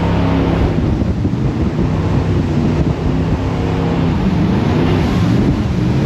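Jet boat engine running hard, its pitch wavering and sliding down and up partway through, with wind buffeting the microphone and water rushing past the hull.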